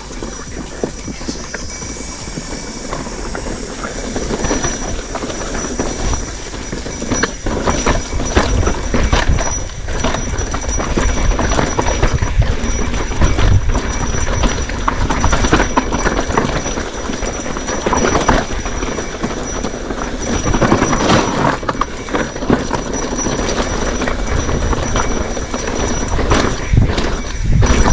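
Bicycle rattling and clattering as it rides over a rough, bumpy trail, with tyre noise and wind rumble on the microphone.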